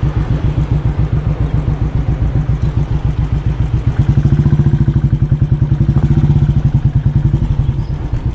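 Royal Enfield Bullet Electra 350's single-cylinder engine running with a fast, even low beat, getting louder about four seconds in and easing off near the end.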